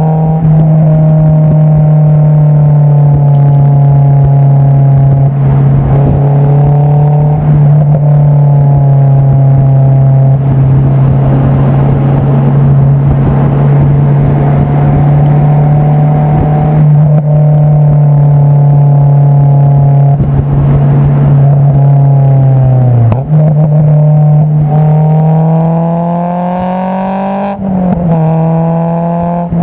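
Honda S2000 (AP2) 2.2-litre inline-four heard at the tailpipe through an Invidia Q300 aftermarket exhaust, cruising with a loud, steady drone. About three-quarters of the way through the pitch dips, then climbs as the car accelerates, drops sharply at a gear change and steadies again.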